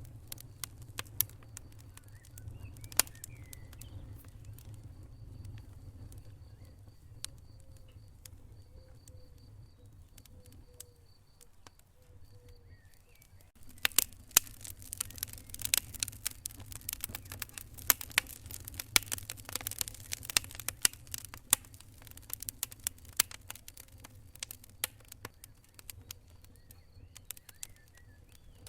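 Wood fire crackling and popping over a low steady rumble of burning. The pops are sparse at first, then come thick and loud for several seconds about halfway through before thinning out again.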